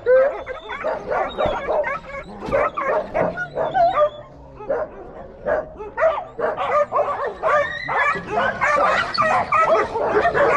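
A dog yipping and whimpering in many short, pitch-bending calls, with a quieter gap about halfway through.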